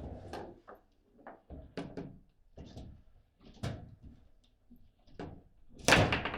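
Table football in play: irregular sharp knocks and clacks of the ball striking the rod figures and the table walls, with the loudest hard strike near the end.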